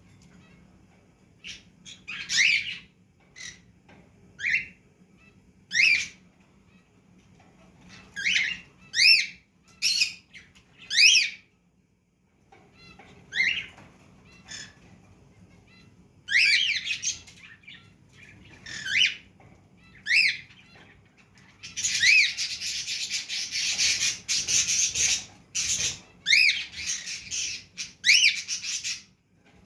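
Pet parrots giving loud, short squawking calls, one after another with gaps between, each call arching up and down in pitch. About three quarters of the way through, a harsh, dense burst of noise runs for a few seconds, with calls still sounding over it.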